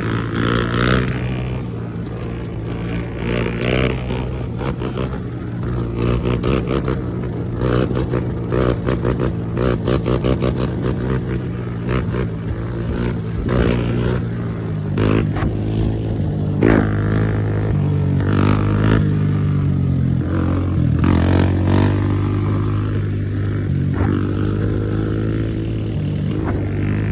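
Dirt bike engine running steadily and being revved repeatedly, the pitch rising and falling several times, with scattered clicks and rattles.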